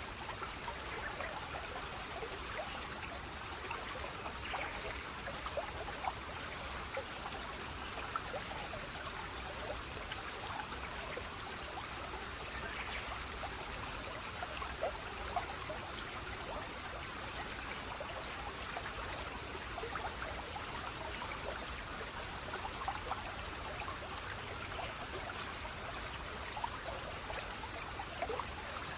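Running water of a small stream, trickling and splashing steadily with many small drips and plops throughout.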